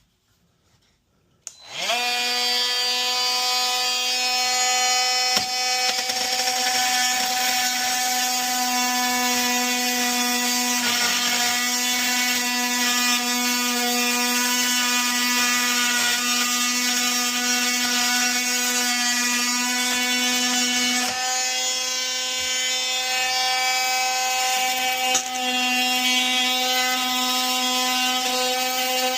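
Cordless oscillating multi-tool starting up about two seconds in and running steadily with an even, high buzz while cutting out drywall. Its pitch shifts slightly twice as the load changes.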